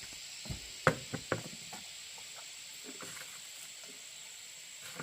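Scattered knocks and taps, the loudest about a second in, over a steady high hiss.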